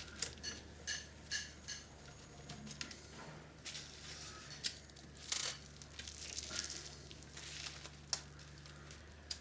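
A screwdriver working a small screw out of a cassette mechanism, with scattered light clicks and a few short scrapes of metal and plastic parts being handled. A low steady hum runs underneath.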